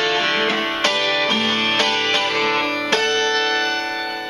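Solo guitar picking the closing notes of a song, a new note about every half second, then a final chord about three seconds in that is left to ring and fade away.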